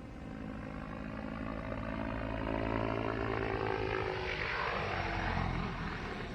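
RC helicopter with an OS 91 two-stroke glow engine during an autorotation: a buzzing hum whose pitch slowly falls, then a rising whoosh of rotor noise about four to five seconds in that eases off near the end.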